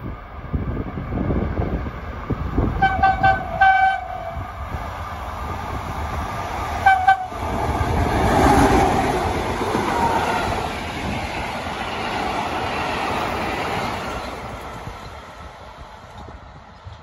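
An FS E656 electric locomotive's horn sounds a few short blasts, then one more short blast a few seconds later, as the locomotive approaches at the head of a heritage train. The train then passes with a rumble and the clatter of wheels over rail joints, loudest about eight to ten seconds in and fading toward the end.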